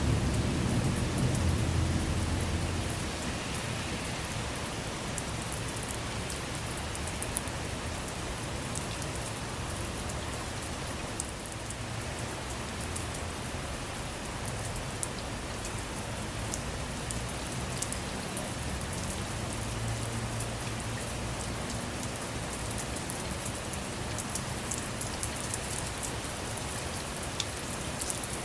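Steady rain with individual drops striking the car, and a low rumble of thunder that dies away in the first few seconds.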